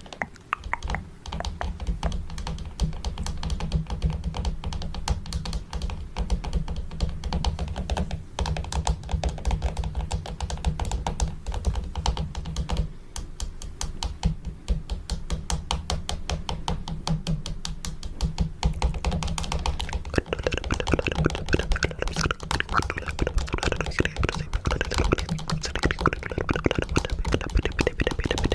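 Fingernails tapping rapidly on a camera, a dense run of quick clicks over dull low thuds. About twenty seconds in, the taps turn brighter and sharper.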